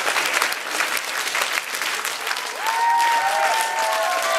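Audience applauding. In the second half a few held notes sound over the clapping, stepping down in pitch.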